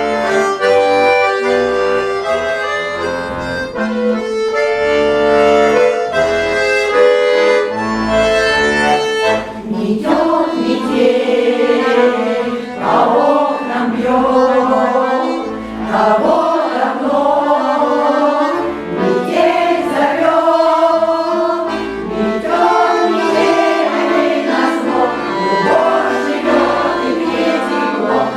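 Russian folk song played on accordion with a choir. The accordion plays alone with held chords and a melody for about the first ten seconds, then the choir comes in singing over it.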